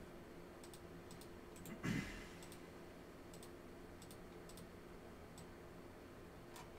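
Faint, light clicks, a dozen or so spread unevenly, with one short soft thump about two seconds in.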